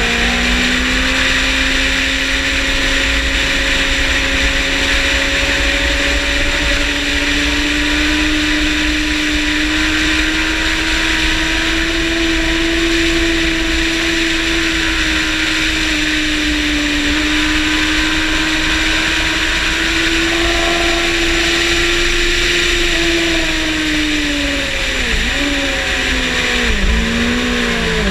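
Motorcycle engine pulling hard at high revs, its pitch slowly climbing and holding, then falling with several quick dips near the end as the rider downshifts, over loud wind rush on the onboard microphone.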